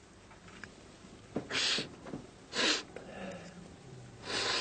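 Three short, breathy exhalations from a person, spaced about a second apart.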